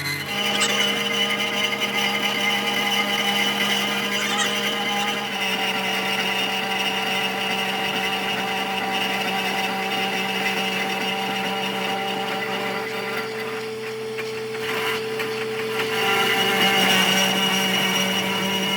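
Workshop power machinery running with a steady motor hum and whine, its pitch and loudness shifting in steps about five seconds in and again near the end.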